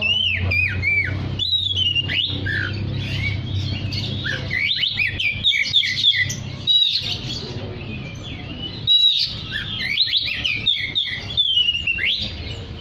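Oriental magpie-robin singing at full voice: quick runs of varied whistles, slurred notes and chirps, in bunches with short breaks between them.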